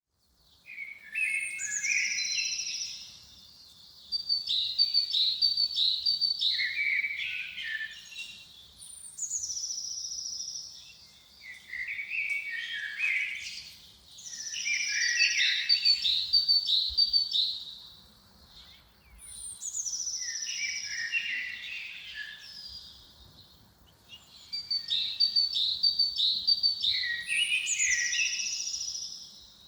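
A songbird singing. It repeats a similar phrase about five times with short pauses between: a high falling whistle, then a rapid run of trilled notes.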